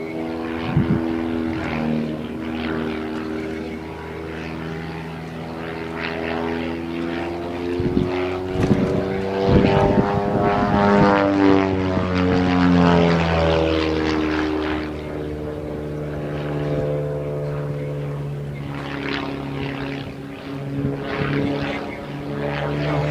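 Propeller-driven airplane's engine droning as it flies past, loudest around the middle of the pass, where its pitch slides down.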